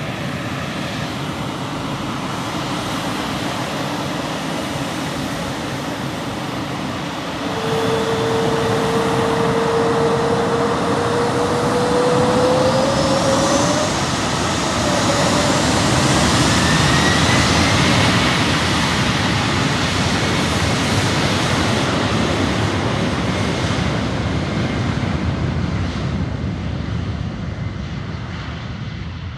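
Twin-engine jet airliner's turbofan engines at takeoff power. A rising whine cuts in about seven seconds in, the noise is loudest in the middle, and it fades toward the end as the plane climbs away.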